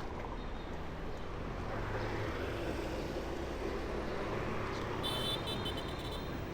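Busy street traffic with motor vehicles running and passing close by. About five seconds in, a rapid series of short, high electronic beeps starts.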